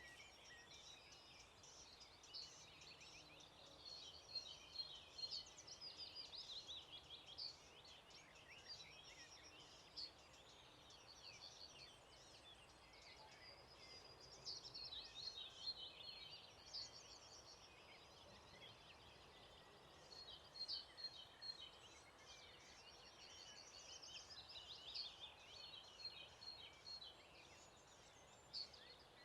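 Several songbirds singing at once, faint: overlapping chirps, trills and warbling phrases that keep on without a break, over a soft background hiss.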